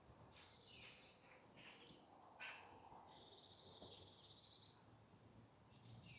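Faint wild birdsong: a series of short chirps and call notes, with a rapid trill for a second or two about three seconds in.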